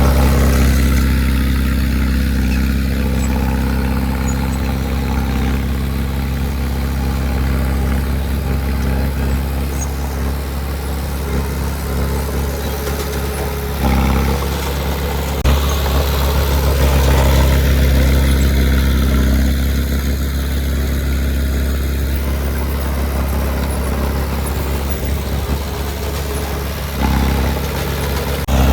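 Heavy diesel engine of earthmoving equipment running steadily, with brief dips about halfway through and near the end, and a single sharp knock about fifteen seconds in.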